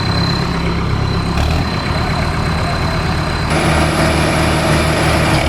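Heavy diesel tractor engines running hard, hitched back to back in a tug-of-war pull. About three and a half seconds in the engine noise gets louder and a high steady whine joins it.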